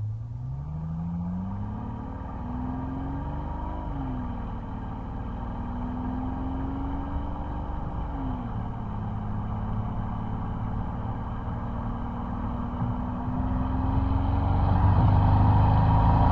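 Mercedes-Benz SL600 twin-turbo V12 heard at its exhaust, accelerating through the gears. The engine note rises, drops at upshifts about four and eight seconds in, then climbs slowly and grows louder near the end.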